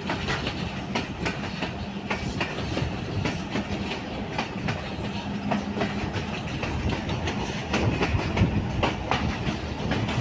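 Passenger train coach running at speed, heard from on board: wheels clicking and knocking over the rails and the coach rattling, over a steady low hum.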